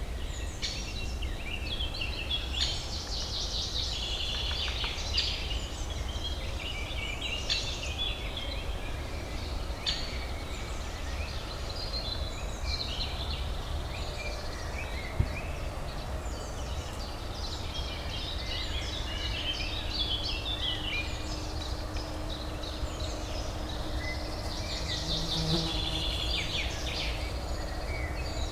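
Birdsong: many small birds chirping and twittering throughout, over a steady low urban hum, with a faint steady tone underneath and a single brief click about halfway through.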